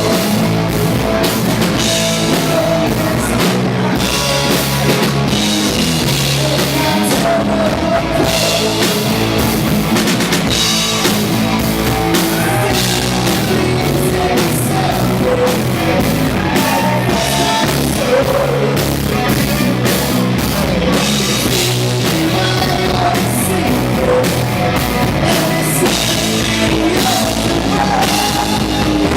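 Live rock band playing heavy metal loudly and continuously: drum kit, electric guitars and bass.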